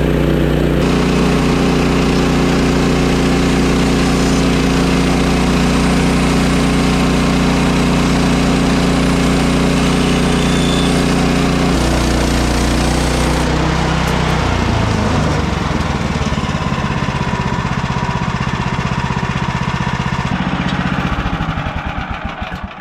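Woodland Mills HM130 Max band sawmill's gas engine running steadily as the blade cuts through hard maple, the saw working to get through the hardwood. Its pitch shifts about halfway through, the engine then drops to a slower, lower speed, and it dies away near the end.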